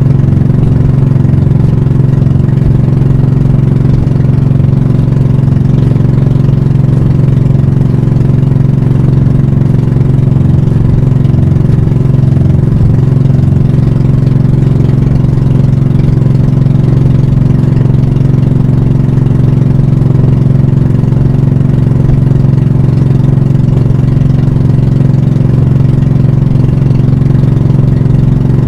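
Banka pump boat's engine running loud and steady, an even low drone that holds one speed throughout.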